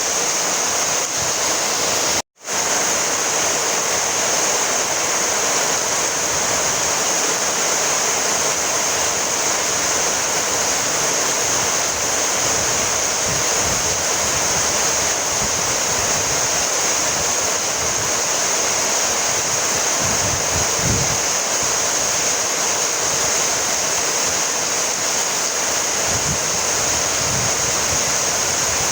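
Steady rainfall, an even hiss with no separate drops standing out, broken by a brief dropout to silence about two seconds in.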